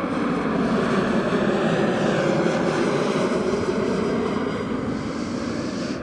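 Boeing 737-900 MAX jet airliner passing low overhead on landing approach, a loud steady roar of its CFM LEAP-1B turbofan engines that eases off slightly near the end.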